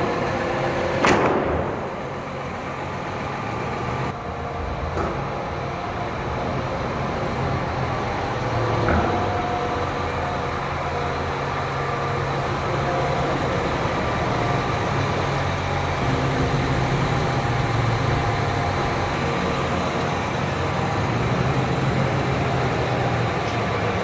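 An engine running steadily with a low hum, with a short sharp noise about a second in.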